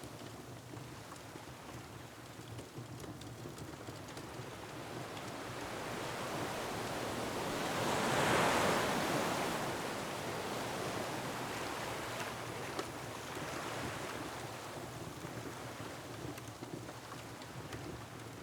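Ocean waves against a rocky shore, over steady wind. One wave swells for several seconds, is loudest about eight seconds in, then slowly washes back.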